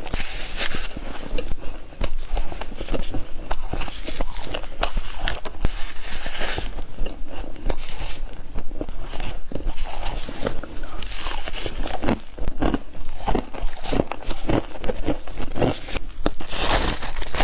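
Frost being bitten and chewed close to the microphone: a continuous run of crisp crunching and crackling bites.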